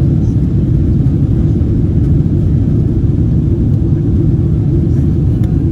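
Steady, loud low rumble of wind buffeting the phone's microphone, mixed with the jet engine roar of a departing Boeing 777-200ER.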